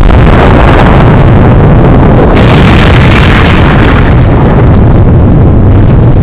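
Explosions as a sound effect, blown out to full volume and heavily distorted: a continuous wall of rumbling blast noise with no breaks.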